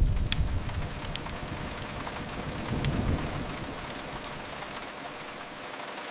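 Steady rain with a low rumble of thunder that fades away over the first couple of seconds. A few sharp crackles of a wood fire come through on top.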